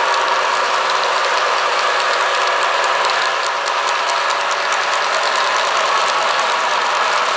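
Model train running on the layout's track: a steady mechanical hum with rapid fine clicking, busiest in the middle.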